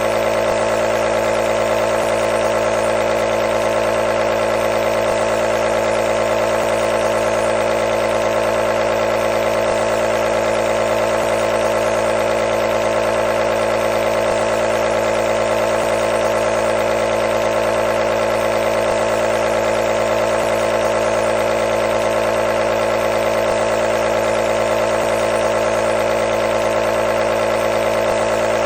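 Nebulizer's compressor running, a steady buzzing hum with a fast even vibration.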